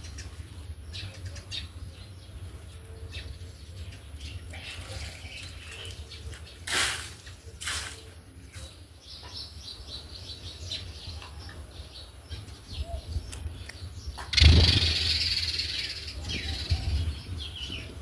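House sparrows chirping in many short, repeated chirps. Two brief louder noises come about seven seconds in, and a loud rush of noise starts about fourteen seconds in and fades over a few seconds.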